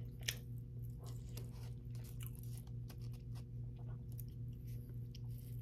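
Close-up mouth sounds of a person chewing food: many short, wet clicks. About four seconds in she bites into a spicy chicken sandwich. A steady low hum runs underneath.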